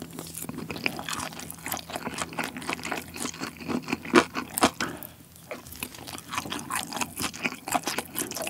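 Close-miked chewing of a spoonful of fried rice: dense, irregular wet, crunchy clicks and squishes of food being chewed with the mouth closed, briefly louder about four seconds in.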